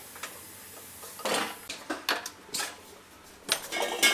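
A handful of sharp metallic clinks and knocks of hard objects being handled. The last and loudest, near the end, rings on briefly with a bell-like tone.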